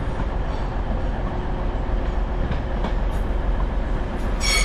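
Transport for Wales Class 197 diesel multiple unit rolling slowly into the platform: a steady rumble of engine and wheels on the rails with a few light clicks. A brief high-pitched squeal comes near the end.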